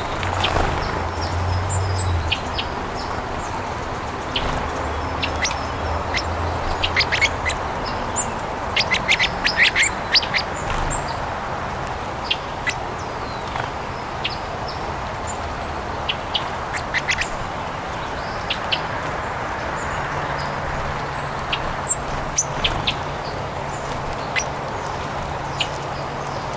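Songbirds calling in many short, sharp chirps, busiest around nine to ten seconds in, over a steady background hiss.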